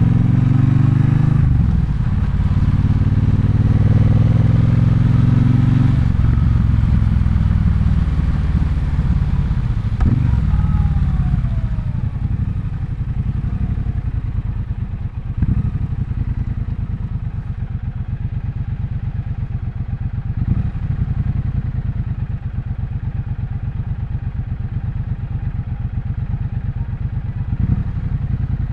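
Triumph Bonneville Bobber's 1200 cc parallel-twin engine pulling up through the revs twice in the first six seconds, then settling to a quieter, steady low beat from about twelve seconds in, with a few single clunks.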